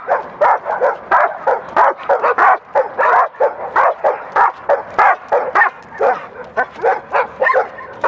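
A rottweiler barking over and over in rapid, sharp barks, about two to three a second, without a break: leash-reactive barking.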